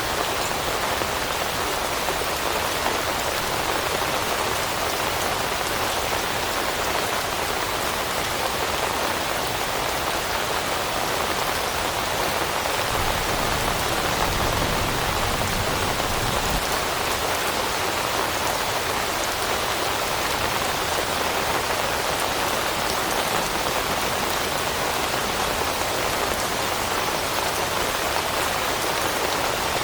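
Steady heavy rain falling on forest foliage, an even dense patter of raindrops on leaves. A low rumble rises for a few seconds midway.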